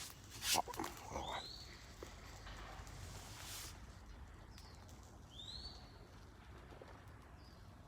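Two short, faint bird calls, each a quick rising-then-falling whistle, about four seconds apart, over quiet outdoor ambience. A few light clicks and a brief rustle come in the first few seconds.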